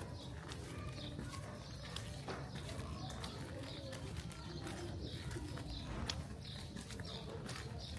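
Birds chirping in short repeated calls over a steady low rumble of city background noise.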